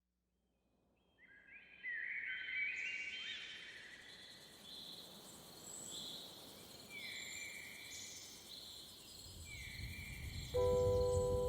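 Bird calls: many overlapping chirps and short whistled glides fade in about a second in and go on throughout. Near the end a held musical chord with a low rumble comes in under them.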